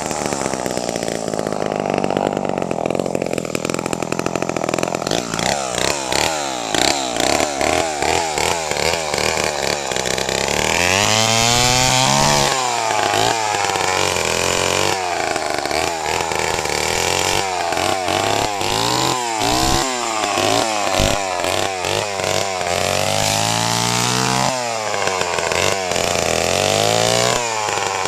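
Chainsaw engine running hard, its pitch rising and falling over and over as it is revved up and dropped back.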